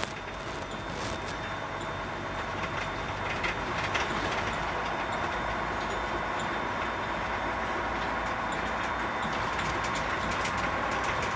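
Container truck under way: diesel engine and road rumble heard in the cab, steady and slowly building, then easing off right at the end.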